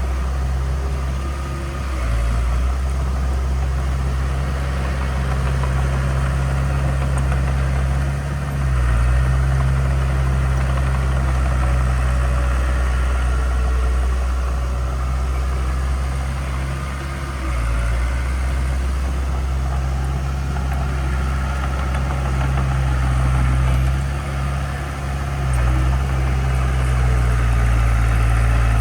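Heavy construction-machine diesel engine running steadily with a low hum. Its note dips and shifts briefly a few times.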